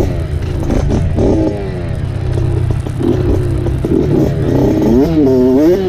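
Dirt bike engine revving up and down while riding, its pitch rising and falling repeatedly over a steady low rumble, with quicker swings near the end.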